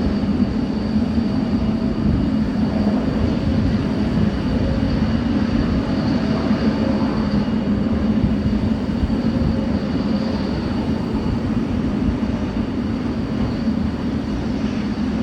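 GE90 turbofan engine of a Boeing 777F running steadily after its start, a loud low drone with a thin, steady high whine over it.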